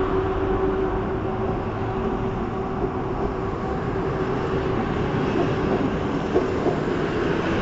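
A train of passenger coaches behind an EP07 electric locomotive rolling past: a steady rumble of wheels on the rails. A hum fades out in the first couple of seconds, and a few faint wheel clicks come near the end.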